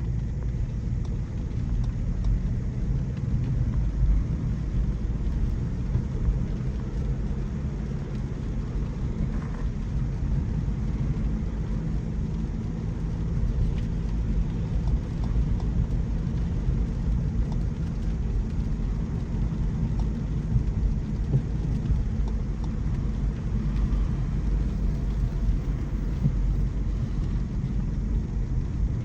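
Steady low road and tyre rumble of a Mercedes-Benz C300e plug-in hybrid sedan driving on wet city streets, with a faint hiss above it.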